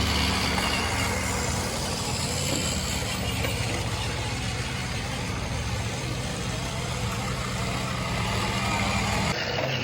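Huina 1573 RC dump truck's motor and gears running with a steady hum and a hiss over it; the sound changes suddenly just before the end.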